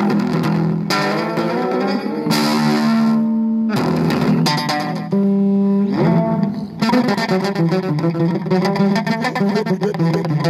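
Amplified electric bass guitar played with effects, a few long held notes in the first half, then a busier run of quick notes from about seven seconds in.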